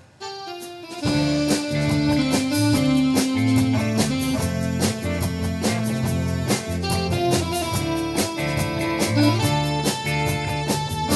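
Live band playing an instrumental stretch with guitar and drums. The band breaks off almost completely at the start with a short falling run, then comes back in at full strength about a second in with a steady drum beat.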